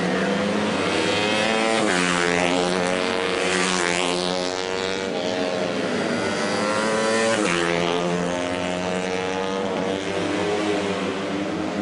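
Racing motorcycle engines running at high revs. Their pitch drops sharply about two seconds in and again about seven and a half seconds in, then climbs back up each time.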